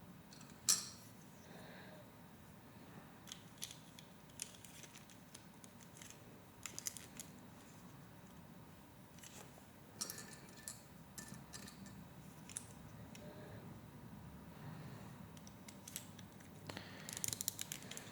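Plastic Lego Technic pieces clicking and clattering as they are handled and pressed together: scattered light clicks, the sharpest about a second in and a quick run of clicks near the end.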